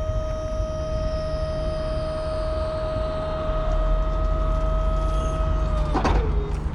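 Electric hydraulic pump of a truck's tail lift running with a steady whine over a low rumble, cutting off about six seconds in as the lift reaches its stop.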